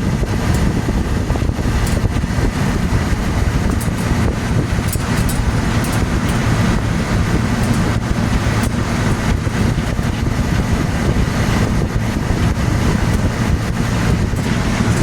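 1965 Sears Coldspot 18,500 BTU window air conditioner running at full cooling: its fan blowing with a steady rush of air over the steady low hum of its compressor.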